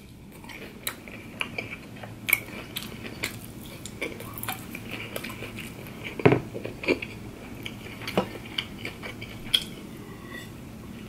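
A person chewing breaded chicken nuggets, with irregular crisp crunches; the loudest crunch comes about six seconds in.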